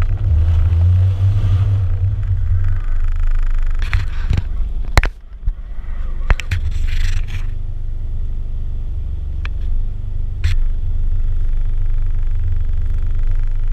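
Car engine heard from inside the cabin: a low rumble that is heaviest for the first couple of seconds, then settles to a steady idle. A few sharp clicks come about five and six seconds in, and again near ten seconds.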